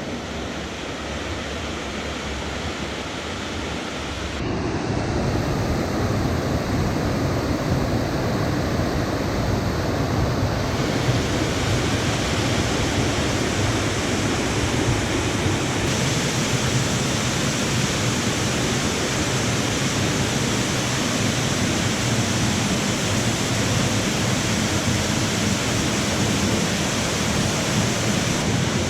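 Waterfalls' falling water: a steady, loud rush of noise. It changes abruptly about four seconds in, growing louder, and shifts again around eleven and sixteen seconds.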